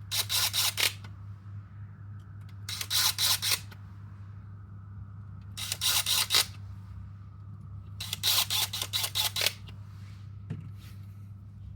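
Four quick bursts of rapid mechanical clicking, about three seconds apart, from the airsoft rifle's trigger and Polarstar Kythera engine being cycled by hand during a trigger-reset check. A faint steady low hum runs underneath.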